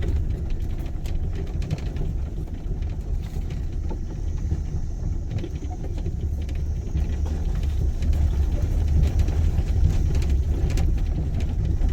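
Car driving, heard from inside the cabin: a steady low rumble of engine and road noise that grows a little louder in the second half.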